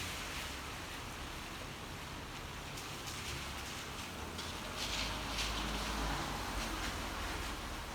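Steady rain falling, an even hiss, with a low rumble coming in about five seconds in and fading a second or so later.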